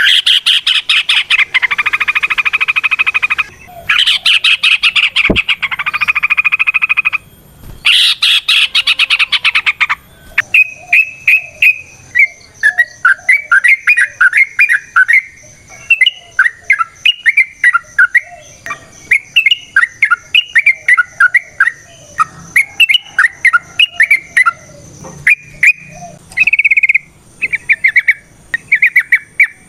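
Yellow-vented bulbul (trucukan) singing. In the first ten seconds it gives three long bursts of rapid chattering notes, then a quick run of short warbled phrases, one after another.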